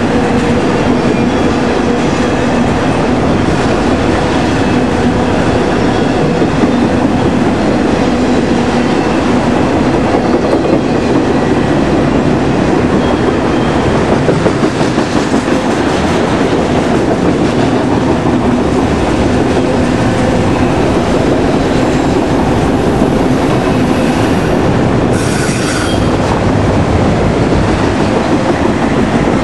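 Autorack freight cars rolling past at speed: a steady, loud rumble and clatter of steel wheels on rail, with faint steady squealing tones from the wheels. A brief high-pitched sound cuts in for about a second near the end.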